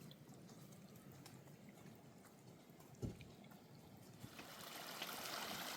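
Faint running water, with a single knock about three seconds in; the water grows louder near the end.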